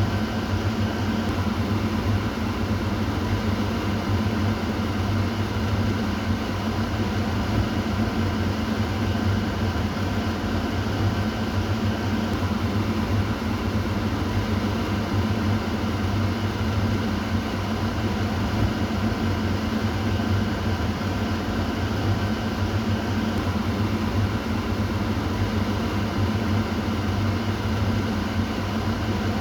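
Kitchen exhaust fan running steadily: an even whoosh of air over a low motor hum.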